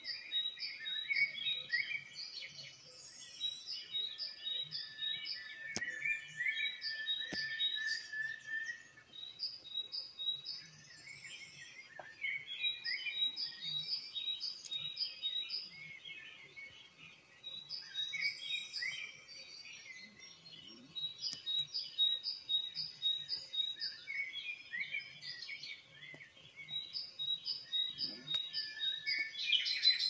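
Songbird singing: phrases of rapid high chirps and trills a few seconds long, separated by short pauses, with a longer, lower held whistle about six seconds in.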